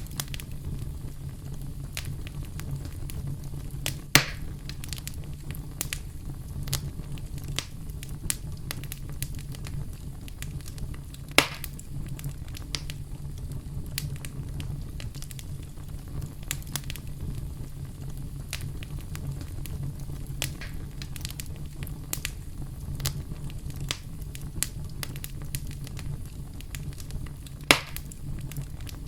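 Wood campfire burning with a steady low rumble and constant crackling, with three louder pops, about four seconds in, a third of the way through, and near the end.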